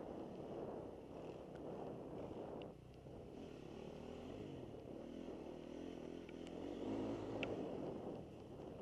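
Dirt bike engine running on a motocross track, its revs rising and falling.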